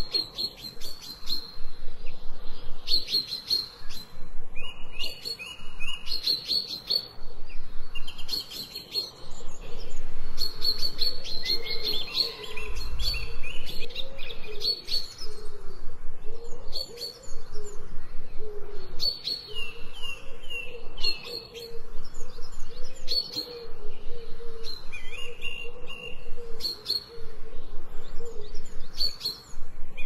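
Birds chirping and singing without pause: quick high chirps, with short runs of falling notes now and then.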